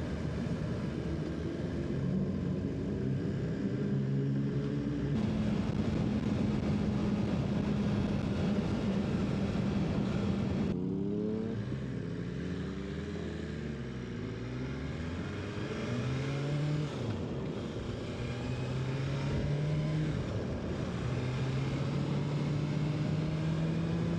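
BMW S1000RR's inline-four engine running under way, with wind noise on the microphone. The engine tone holds steady at cruising revs, drops and winds back up about halfway through, then settles steady again.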